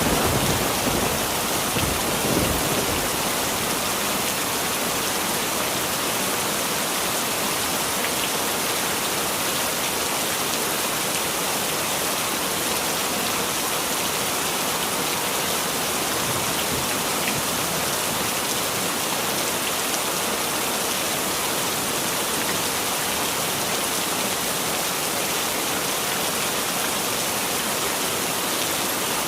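Heavy rain falling steadily, an even hiss of drops. The low rumble of thunder dies away in the first couple of seconds.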